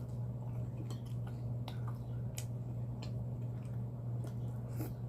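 A steady low hum with soft clicks and ticks at irregular spacing, several a second at most.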